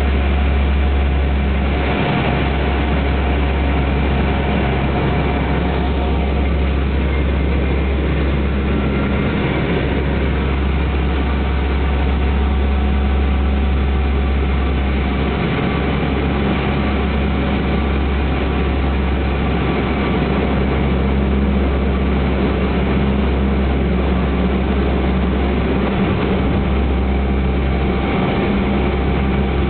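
Heavy engine running steadily, a deep continuous rumble with a few faint steady tones above it.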